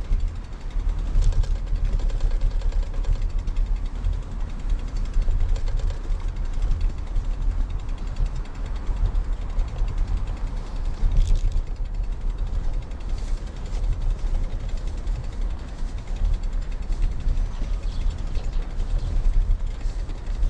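Wind rumbling on the microphone of a moving road bike, with light mechanical ticking and rattling from the bike throughout.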